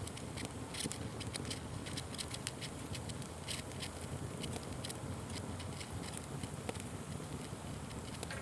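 Fire crackling and popping: frequent irregular sharp snaps over a steady low noise.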